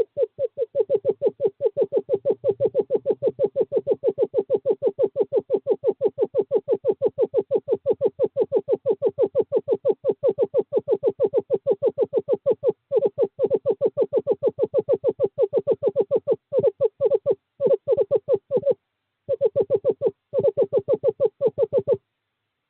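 Male screech owl giving a long, steady trill: a rapid run of low, even notes on one pitch, interrupted by a few short breaks in the second half. It is a courtship call to bring a female to the nest box.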